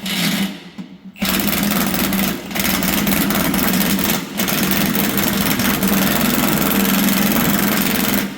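Electric motor and hydraulic pump of a two-post lift's power unit running with a steady hum. It cuts out briefly about half a second in and starts again about a second later.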